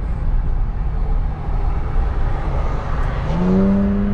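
Steady low vehicle rumble. About three seconds in, a motor spins up with a short rising whine and settles into a steady hum.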